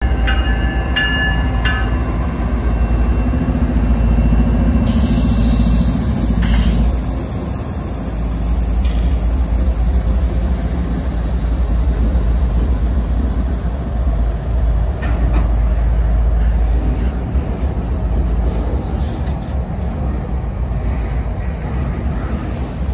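Norfolk Southern diesel locomotives passing close by at a grade crossing; a horn chord sounds for the first couple of seconds and cuts off. The engines' drone gives way after about seven seconds to the steady rumble and clatter of double-stack intermodal container cars rolling past on the rails.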